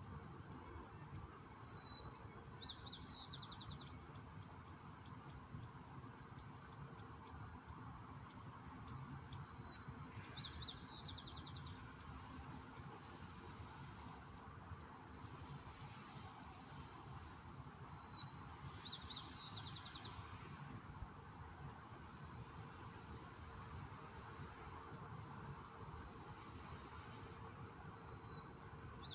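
A songbird singing: a short high whistle then a quick falling, buzzy run of notes, repeated about every eight seconds, with many short high chips in between, over a steady background hiss.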